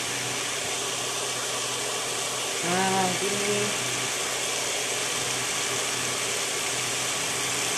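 Chicken of the woods mushroom pieces sizzling in olive oil in a frying pan: a steady, even hiss.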